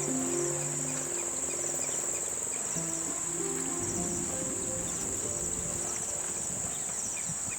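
A continuous high-pitched insect trill holding steady, with soft sustained music notes beneath it that fade out about halfway through.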